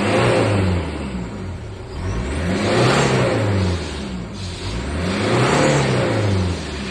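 Toyota 1KZ-TE 3.0-litre turbo diesel four-cylinder engine revved three times, each rev rising and then falling back toward idle.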